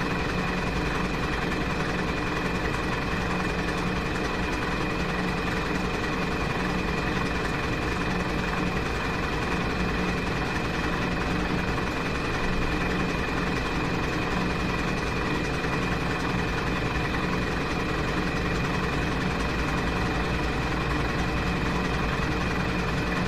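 Washing machine running steadily, a constant hum with a fixed-pitch whine over it.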